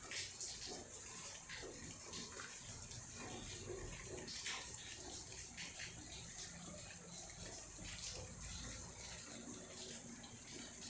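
Steady rain falling, heard as an even hiss with many scattered drop impacts and drips.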